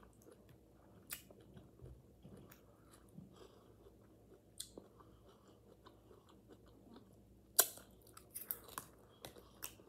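Close-miked chewing of soft marinated vegetables, with scattered wet mouth clicks. A sharper click comes about three-quarters of the way through.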